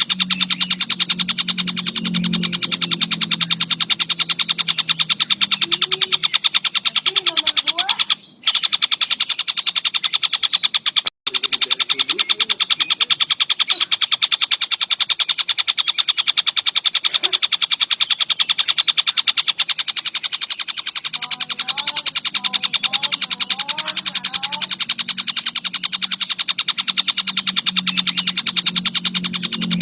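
Collared kingfisher (tengkek buto) calling in a rapid, unbroken chatter, with a low hum beneath. The sound drops out briefly twice, about eight and eleven seconds in.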